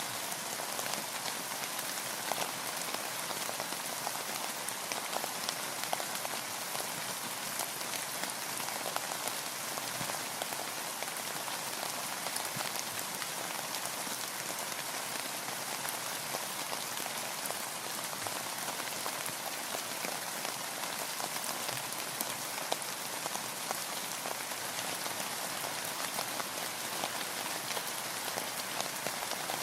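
Steady rain falling, with many small drops pattering irregularly on a nearby surface.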